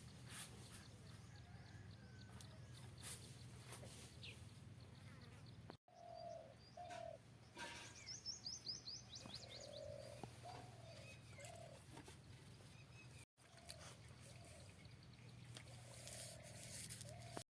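Faint outdoor ambience with birds calling: repeated short calls and, about eight seconds in, a quick run of high chirps. The sound drops out briefly twice, at cuts.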